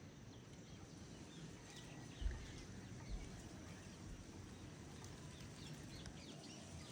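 Faint steady rain hiss with scattered bird chirps, and two brief low thumps about two and three seconds in.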